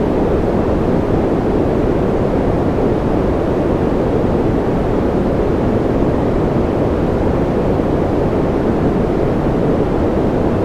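Steady, unchanging noise for sleep and concentration, deep and rushing rather than hissy, with no individual drops, tones or events.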